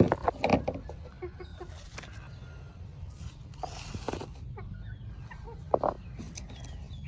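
Birds calling in short curving calls, with a few sharp knocks and rustles, the loudest right at the start and again around four and six seconds in.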